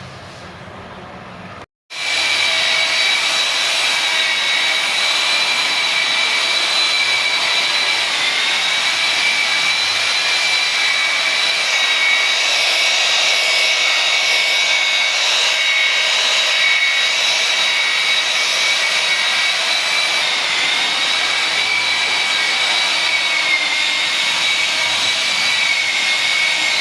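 A steady rushing air hiss with a high-pitched whine, like a workshop air tool or power tool running continuously. It starts abruptly about two seconds in, after a brief quieter stretch, and holds almost unchanged.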